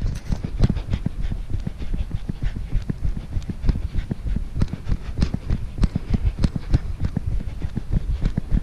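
Hard panting breath of a runner over a quick, even run of footfalls in snow.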